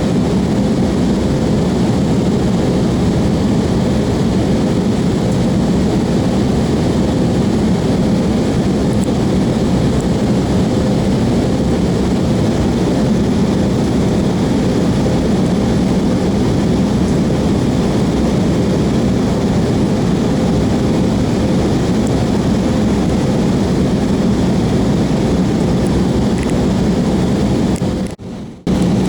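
Airliner cabin noise during descent: a steady roar of engines and airflow with a faint constant hum, cutting out briefly near the end.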